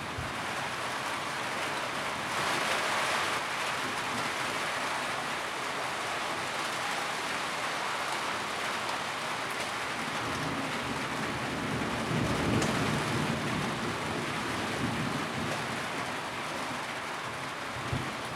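Steady rain drumming on a tin roof, a dense even patter that briefly grows heavier a few seconds in. A low rumble swells up under it about two-thirds of the way through.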